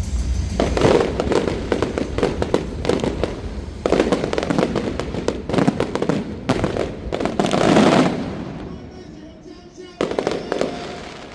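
Aerial fireworks going off in dense, rapid crackling volleys of bangs. The volleys come in two long runs, then a short burst after a pause near the end.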